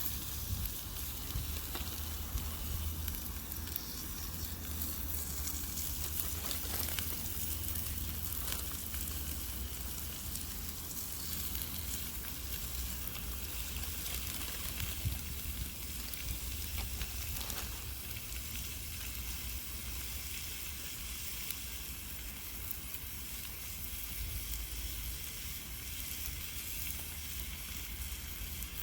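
Food sizzling in a pan over a campfire: a steady frying hiss with scattered faint crackles, over a low rumble.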